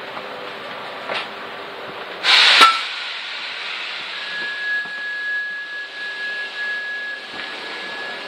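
Inside a regional train carriage: a short, loud burst of air hiss about two seconds in, followed from about four seconds on by a steady high tone over the carriage's background noise.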